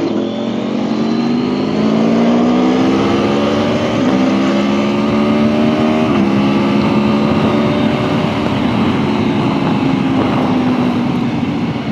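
Aprilia Tuono V4 1100 Factory's V4 engine pulling hard under acceleration, rising in pitch with two quick upshifts about four and six seconds in, then holding and easing off, over heavy wind rush.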